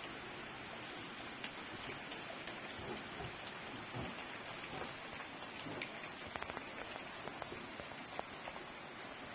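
Steady rain falling, an even hiss with many scattered individual drops tapping nearby.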